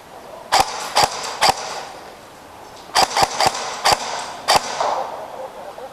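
Airsoft guns firing single shots, each a sharp crack: three about half a second apart, then a second volley of five about three seconds in, some with a short ringing tail.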